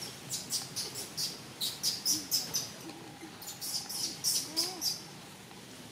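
Small bird chirping: runs of short, sharp, high-pitched chirps several times a second, in two main bouts with a lull near the end. A few faint low short calls are heard in the middle.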